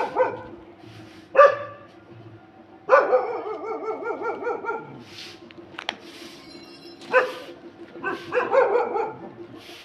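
A dog barking in several separate bouts, with a longer run of yelping calls about three seconds in.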